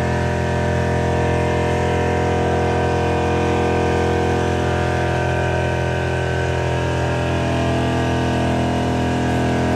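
Car engine held at a steady pitch during a burnout, with a rushing noise over it.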